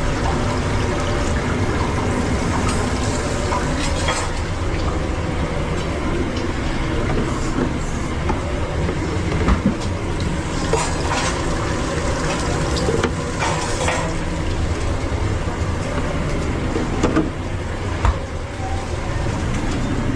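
Steady rumbling hiss of food truck kitchen noise, with a few sharp clicks and clatters of utensils or cookware.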